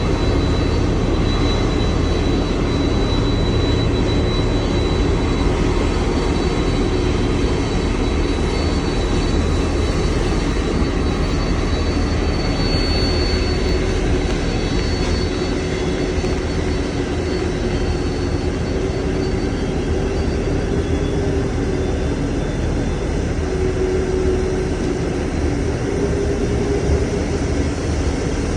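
Jet engines of a Boeing 767-300 running steadily: a continuous loud rumble and rush with a faint high whine over it.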